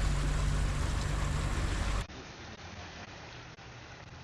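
Boat motor running with a steady low hum under wind and water noise. About halfway through, the sound drops abruptly to a much quieter hiss with faint small ticks.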